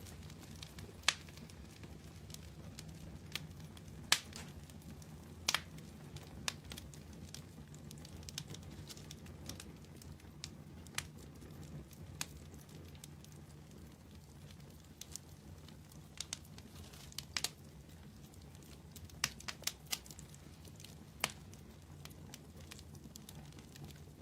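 Wood campfire burning: irregular sharp crackles and pops from the burning wood over a steady low rumble of the flames.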